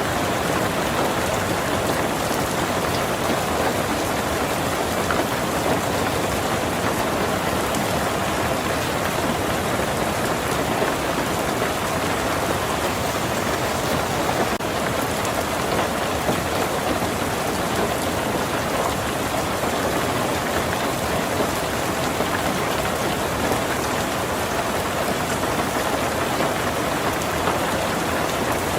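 Heavy rain falling on a tin roof, a steady, dense patter that does not let up.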